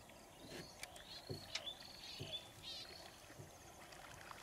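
Faint bird chirps: short high calls repeated several times, with a few sharp clicks and a couple of dull knocks.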